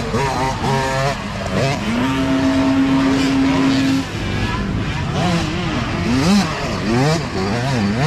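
Several mini dirt bike engines racing past, their pitch rising and falling as riders work the throttle and shift; one engine holds a steady high rev for a couple of seconds before backing off.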